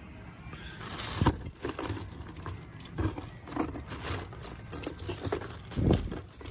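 Loose metal jingling and rattling, with heavier metal clanks about a second, three seconds and six seconds in, as hardware is worked while rigging an engine for lifting.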